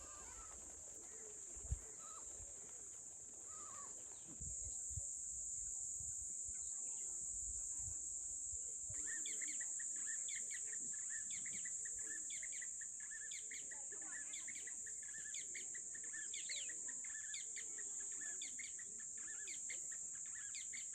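Chickens calling, with many short high peeps coming thick and fast from about nine seconds in, over a steady high-pitched hiss. A few low knocks sound in the first seconds.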